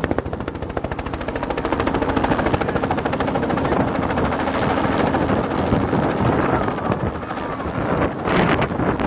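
Helicopter rotor blades chopping rapidly in a fast, even beat over the running engine. A gust of noise comes near the end.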